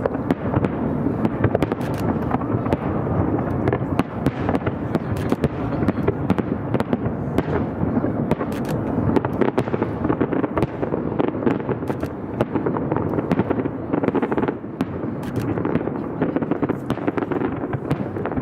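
Fireworks display: a continuous barrage of bangs and crackles, many reports overlapping each second with no break.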